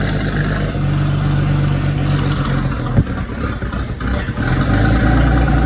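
Inboard boat engine running steadily, with a sharp click about three seconds in.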